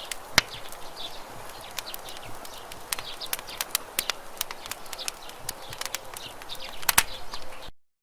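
Wood campfire crackling, with a steady hiss and many irregular sharp pops, a few louder snaps close together near the end. The sound cuts out abruptly to silence just before the end.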